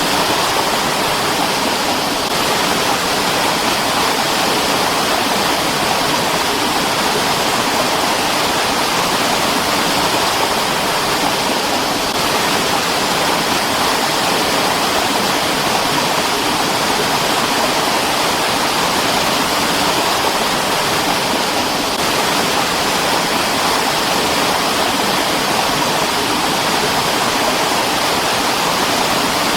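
Mountain stream rushing steadily over rocks, a constant full splashing flow.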